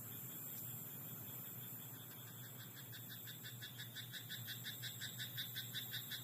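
A frog croaking in a rapid, even series of calls, about five a second, starting about two seconds in, growing louder and stopping abruptly near the end.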